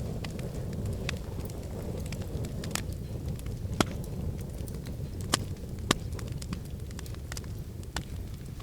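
Wood fire in a fireplace crackling over a steady low rumble, with sharp snaps and pops; the loudest pops come a little under four seconds in and twice more between five and six seconds.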